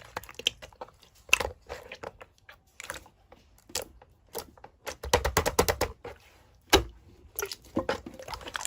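Irregular clicking and crinkling handling noises, with a denser run of them about five seconds in.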